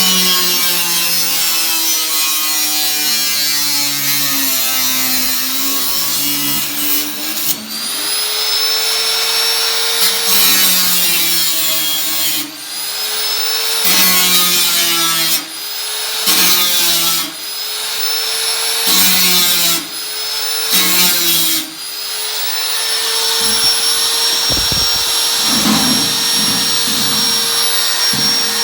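Electric power tool running with a steady motor whine while it works the sheet metal of an 18-litre square tin can, its sound changing as it bites in and briefly letting up several times in the middle stretch.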